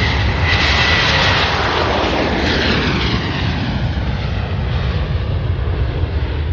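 Aircraft flying past low and loud, its engine noise falling in pitch as it goes by and slowly easing off.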